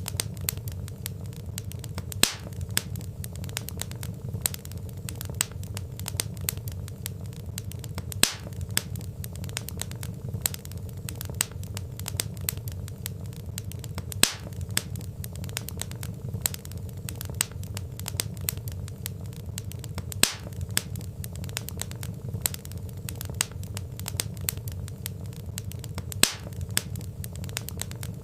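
Wood fire crackling: a dense run of small crackles over a steady low rumble, with a louder pop about every six seconds.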